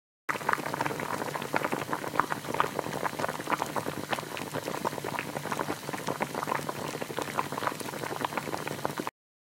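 A pot of spicy rockfish stew (ureok maeuntang) bubbling at a steady boil, a dense patter of small bubble pops; it cuts in and out abruptly.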